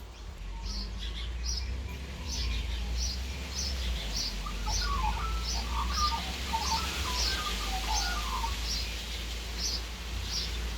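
Birds calling: one gives a short, high chirp about twice a second throughout, while another adds a run of lower warbling notes through the middle. A steady low rumble sits underneath.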